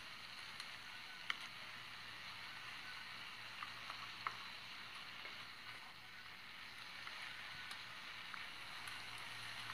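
Chicken pieces frying in hot oil in a pot, a steady sizzle, with a few light clicks of a wooden spoon knocking the pot as it stirs.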